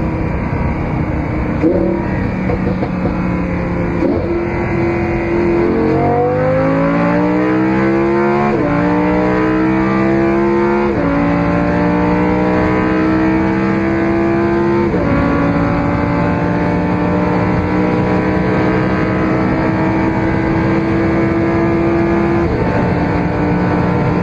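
Car engine accelerating hard through the gears: its pitch sweeps up steeply, then drops at three upshifts, climbing more slowly after each. It then holds a nearly steady pitch before stepping down near the end.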